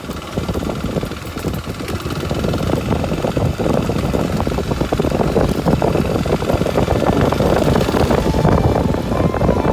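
Kawasaki Super Sherpa's 250 cc single-cylinder four-stroke engine running under way, getting louder over the first few seconds and then holding steady.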